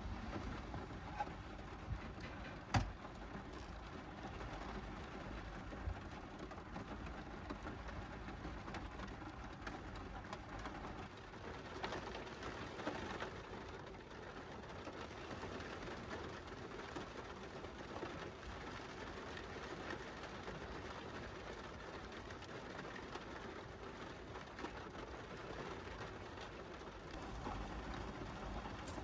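Steady rain falling on a car's roof, heard from inside the cabin, with a few louder drop ticks now and then.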